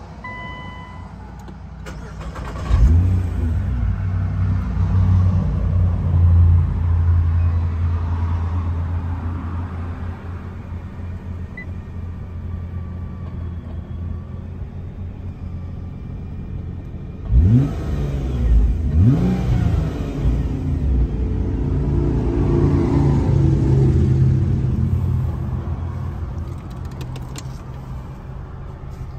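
Nissan GT-R's twin-turbo VR38DETT 3.8 L V6 with a custom 3.5-inch exhaust, heard from inside the cabin. A short electronic dash chime sounds at the start, then the engine starts about three seconds in with a flare of revs and settles into a steady idle. About halfway through it is blipped twice in quick succession, the revs rising and falling, then it idles on.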